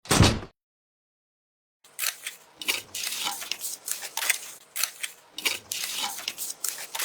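A single heavy thump, then after a pause a fast, irregular run of clicks, clinks and scrapes from small hard pieces being handled and moved.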